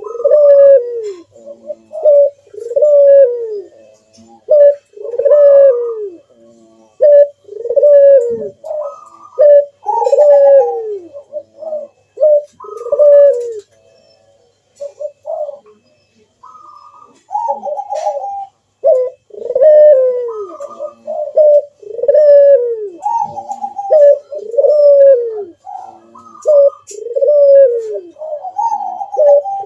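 Puter doves (ringneck/Barbary doves) cooing over and over in their full calling song, each phrase a series of throaty coos that drop in pitch, with a short pause about halfway through.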